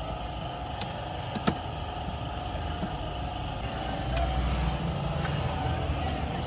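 Motor vehicle engine running steadily, its low rumble growing louder about four seconds in, with one sharp click about a second and a half in.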